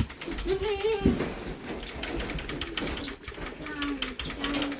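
Goats bleating, one wavering call about half a second in and shorter calls near the end, over scattered clicks and knocks of hooves and feed buckets.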